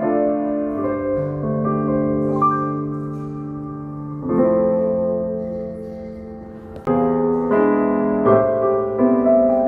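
Piano playing slow, sustained chords; fresh chords are struck about four seconds in and again near seven seconds, each dying away before the next.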